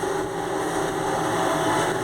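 Steady rain falling, with a steady low hum under it.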